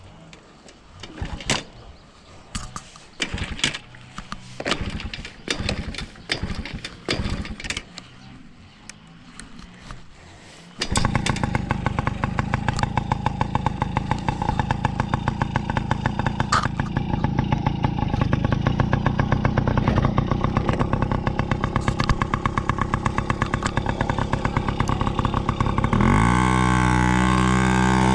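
A series of irregular knocks and clunks, then a motorcycle engine starts about eleven seconds in and idles with a fast, even pulse. Near the end it revs up and holds at a higher speed.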